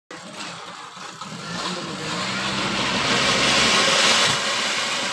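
Cone-shaped ground fountain firecrackers (flower pots) spraying sparks with a rushing hiss that builds over the first two seconds and stays loud.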